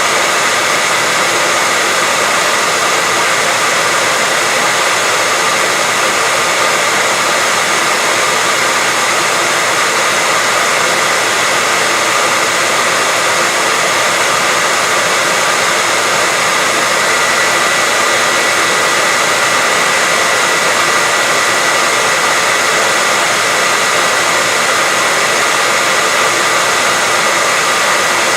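Steady white noise for sleep or masking: an unbroken, even hiss, brighter than it is deep, with a faint steady whine running through it.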